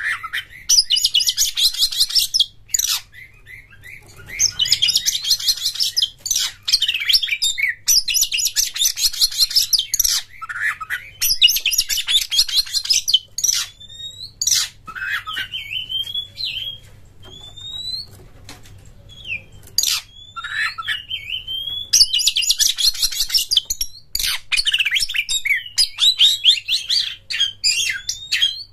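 Oriental magpie-robin (kacer) singing: bursts of rapid, dense, high trilling a second or two long, alternating with short whistled notes that slide up and down.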